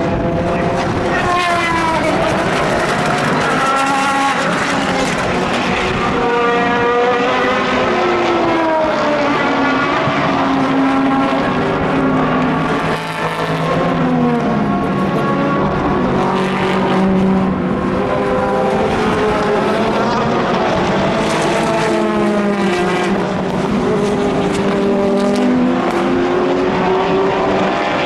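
Endurance race cars passing at speed one after another, their engine notes overlapping. The pitch climbs in repeated rises as they accelerate through the gears, then slides down as each car goes by.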